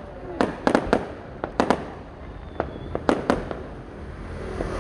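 Fireworks display: a rapid, irregular series of sharp bangs and pops from bursting aerial shells, several close together.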